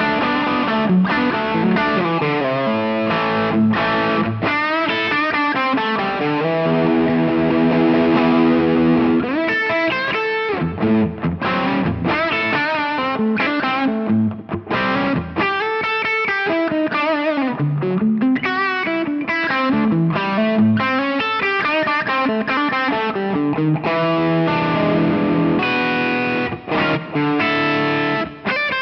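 Electric guitar played through a Signal System Design 97 Drive overdrive pedal, giving a distorted tone. It plays a run of changing chords and single notes, with one chord held for a couple of seconds about a quarter of the way in.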